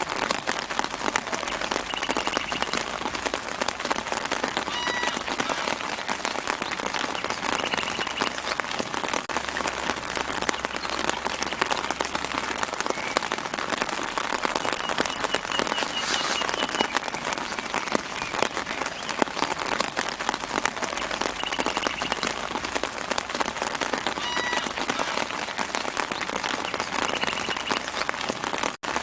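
Steady soft rain falling on tree leaves, dense with many small drop hits. A few short bird calls sound faintly now and then.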